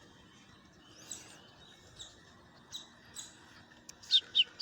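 Baby woodpecker calling while being hand-fed: a few faint, short, high calls, then three loud, sharp chirps in quick succession near the end.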